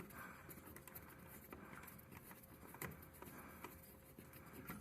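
Faint clicks and rustling of hands working electrical wires, twisting a wire around a connection.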